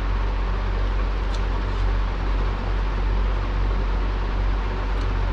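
Steady whooshing noise with a low hum from a running electric fan, with a few faint light clicks.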